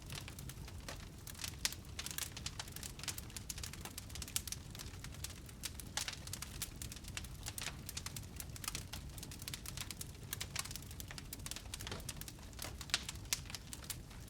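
Wood fire burning in a fireplace, with many irregular crackles and pops over a low steady rumble of flames.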